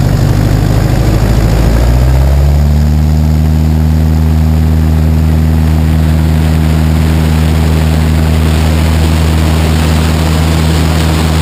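Cessna 172's four-cylinder piston engine and propeller throttling up to full power about two seconds in, then running steadily at takeoff power, with rushing air on a wing-mounted camera.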